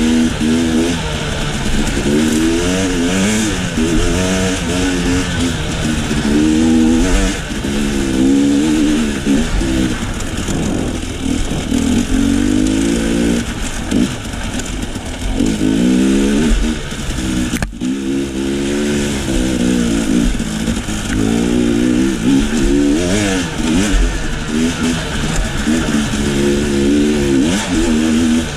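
KTM enduro dirt bike engine being ridden, revving up and falling back again and again as the throttle opens and closes, its pitch climbing and dropping every couple of seconds. The sound cuts out for an instant about two-thirds of the way in.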